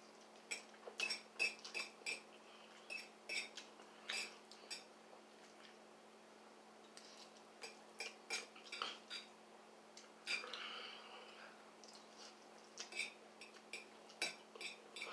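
Eating utensil clinking against a dish while noodles are eaten: irregular clusters of light, ringing clicks.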